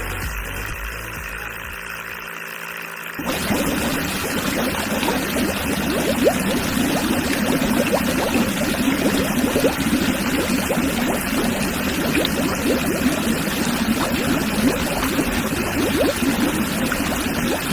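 Small electric mini water pump running, with water splashing and pouring steadily; it comes in abruptly about three seconds in, after a short stretch of quiet music.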